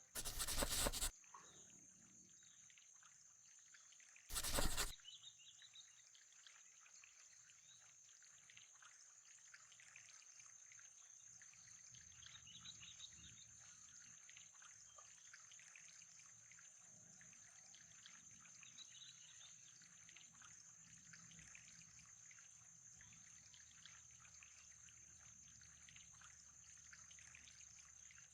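Faint trickling water, with two brief loud bursts of noise, one at the very start and one about four and a half seconds in.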